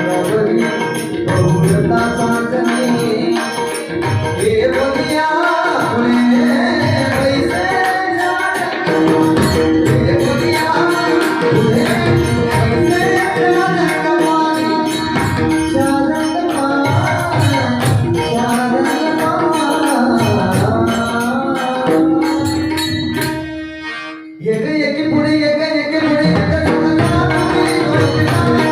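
Marathi devotional gaulan song: a male singer's melody over a steady held tone, with drum and jingling percussion keeping a beat. The music dips and drops out for about a second some five seconds before the end, then resumes.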